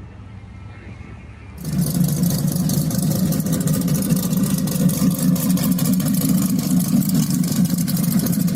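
A car engine close by, coming in suddenly and loud about a second and a half in and then running steady with a rapid pulsing exhaust note, over a quieter low engine hum before it.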